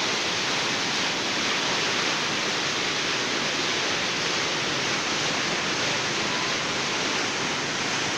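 Floodwater from heavy rain rushing in a steady, unbroken torrent.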